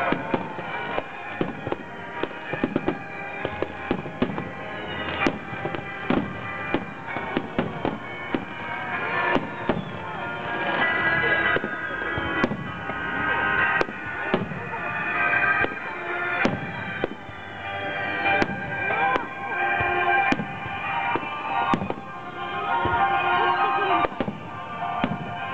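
A fireworks display: shells bursting in rapid, irregular succession, dozens of sharp bangs, with music playing underneath.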